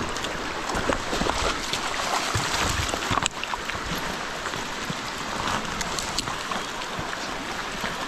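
Stream running: a steady rush of water, with scattered small clicks and knocks through it.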